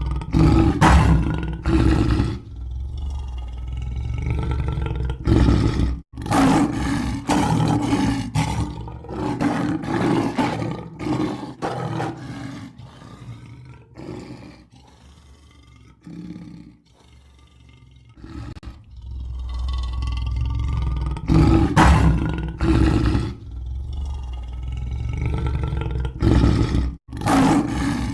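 Lion roaring and growling in repeated loud bouts, with a quieter, lower stretch about halfway through. The sound breaks off abruptly for an instant twice, at edit joins of a looped recording.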